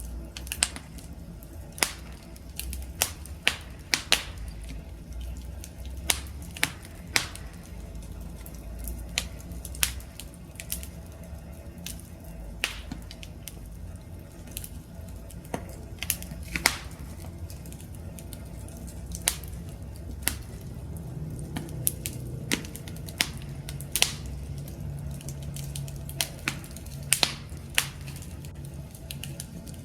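Wood fire crackling: irregular sharp pops and snaps of burning wood over a low rumble of flames. A faint low drone comes in about two-thirds of the way through.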